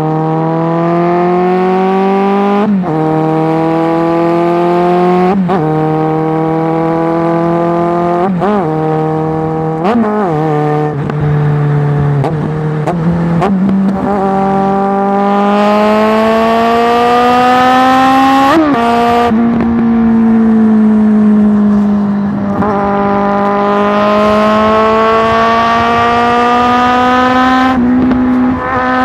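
Suzuki GSX650F's inline-four engine through a Tiger aftermarket exhaust, running under load while being ridden. The pitch climbs steadily and then drops sharply several times, as at gear changes.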